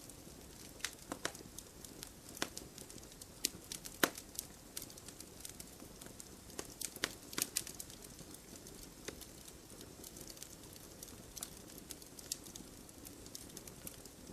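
Wood fire crackling in a fireplace: irregular sharp pops and snaps of burning logs over a low steady rush of flame.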